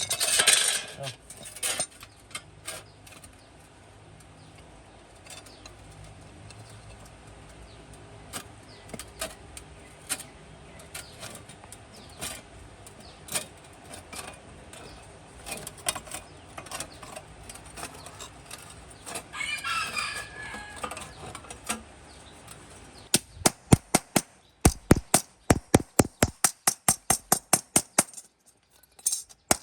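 Scattered light taps and clicks of hand work on metal, then a fast run of sharp hammer blows, about three a second, in the last six seconds, typical of hammering out the sheet metal of a rusted truck cabin.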